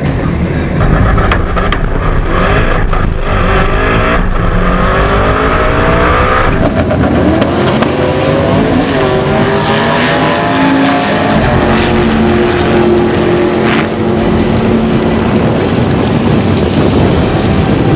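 Turbocharged 2.5-litre Subaru EJ25 flat-four drag-race engine at full throttle, climbing in pitch through each gear and dropping back at the shifts.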